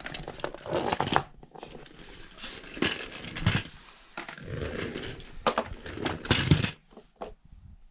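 Plastic toy monster trucks being handled and run down a play slide: irregular knocks, rattles and scrapes, loudest about six and a half seconds in.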